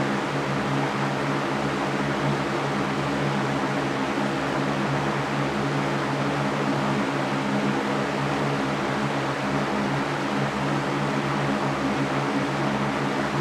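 Electric fan running steadily: an even airy rush with a low motor hum underneath.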